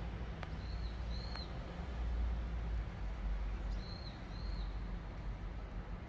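Outdoor ambience with a steady low rumble and a small bird chirping: two pairs of short, high chirps, one pair about a second in and another about four seconds in.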